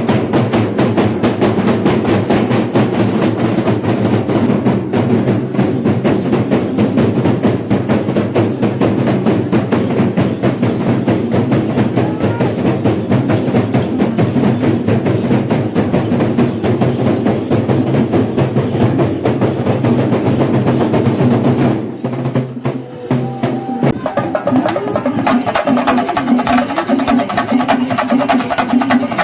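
Kerala temple-festival percussion ensemble playing: chenda drums beaten in fast, dense strokes over cymbals. About three-quarters of the way through the playing dips briefly and comes back brighter.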